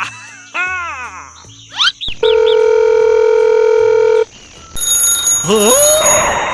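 A string of cartoon sound effects: falling and rising whistle-like glides, then a steady buzzer tone held for about two seconds, then rising glides over a high sparkling shimmer near the end.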